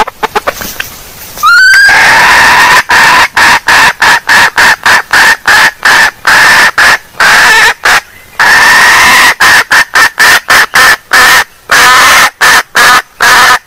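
Female junglefowl (hen) calling in a loud, fast run of short clucks, about three a second, with a few brief breaks. The run opens with a short rising note. This is a lure call for wild junglefowl.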